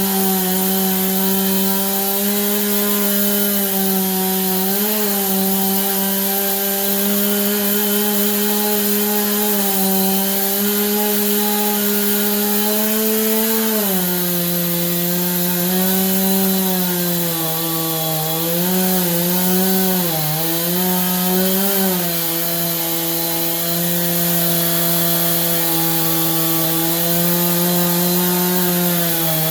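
Stihl two-stroke chainsaw in an Alaskan mill running at full throttle, ripping lengthwise through a pine log. The engine note drops about halfway through, wavers and dips for a few seconds as the cut loads it, then holds steady at the lower pitch.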